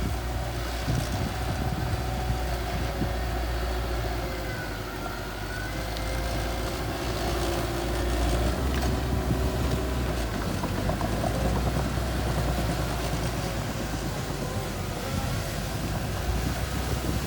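Small bulldozer's engine running steadily under load, with faint thin squeaks that rise and fall in pitch.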